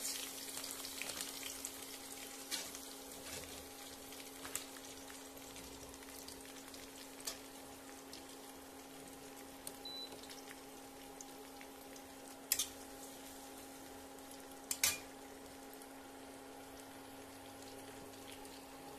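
Onions, garlic, green chillies and ginger sizzling gently in hot oil in an iron kadhai, with a few sharp knocks of a metal spatula against the pan, the two loudest about two-thirds and three-quarters of the way through. A steady low hum runs underneath.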